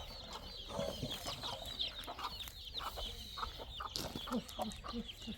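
Chickens clucking with short, scattered calls, over constant high-pitched chirping.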